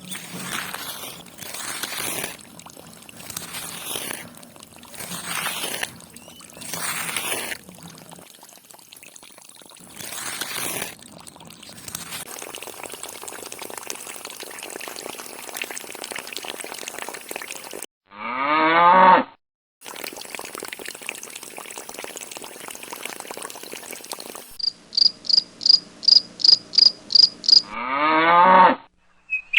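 Water splashing in spurts about once a second, then a steady hiss. A cow moos twice, loudly, each call rising in pitch, with a run of quick high chirps between the two moos.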